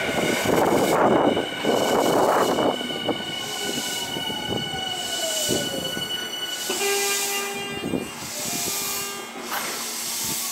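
Tokyu electric commuter train slowing beside the platform: a loud rumble of wheels on rail in the first few seconds, then the motor whine falling steadily in pitch as it brakes, followed by a steady hum from about seven seconds in.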